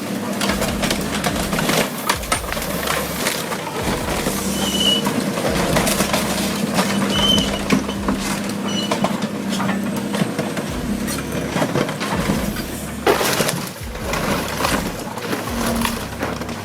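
A heavy machine runs with a steady low hum while debris crunches and cracks irregularly, with a louder crack about thirteen seconds in. Three short high squeaks come through about five, seven and nine seconds in.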